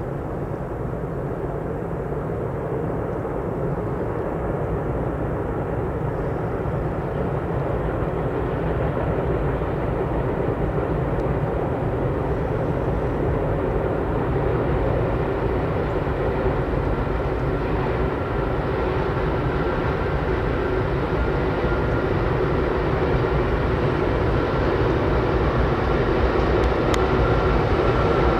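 An approaching train: a steady low rumble that grows gradually louder.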